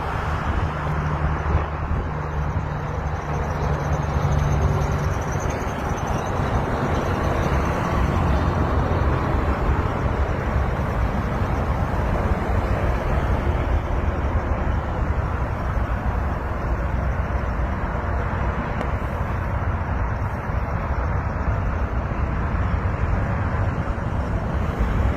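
Steady road traffic noise, with a low engine hum during the first five seconds or so.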